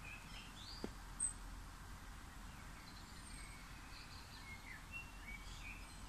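Faint birds chirping: short, scattered high calls over a faint steady background noise.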